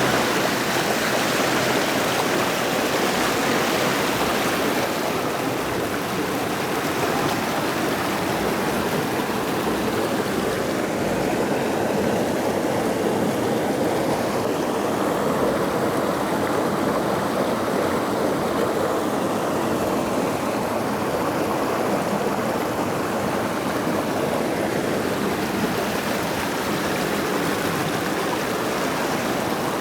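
Forest creek rushing over rocks: a steady, even rush of flowing water, its hiss easing slightly about five seconds in.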